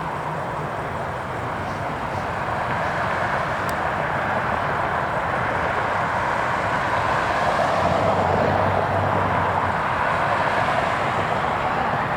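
Boeing 767 jet engines roaring as the airliner passes, swelling to a peak about two-thirds of the way through and then easing slightly.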